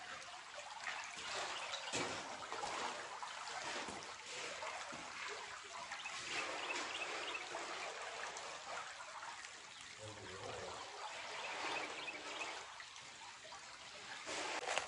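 Shallow creek water trickling and babbling over rocks, a steady rushing hiss that swells and eases.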